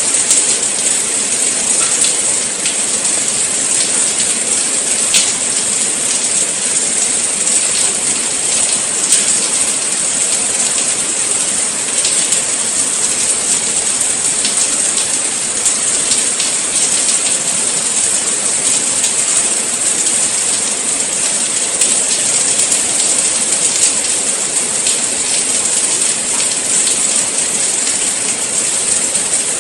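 Steady, heavy rain falling: a dense, even hiss, strongest in the high range, flecked with countless small drop ticks.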